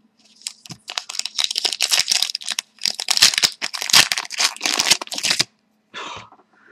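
Trading card pack wrapper being torn open and crinkled, a dense run of crackling for about five seconds with a shorter burst near the end.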